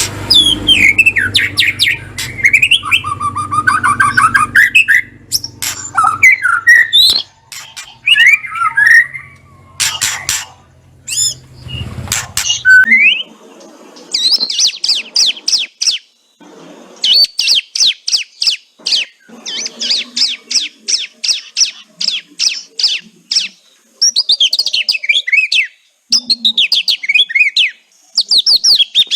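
White-rumped shama (murai batu) calling: varied whistled phrases over a low hum at first, then, from about halfway through, repeated bursts of rapid, short, high falling notes. These are the chattering 'kretekan' used to lure a shama into song.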